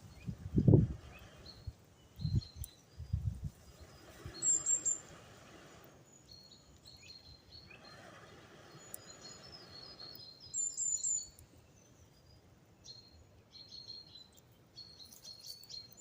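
Small birds chirping and singing in short repeated high phrases. A few dull low thumps come in the first three seconds, the loudest about a second in.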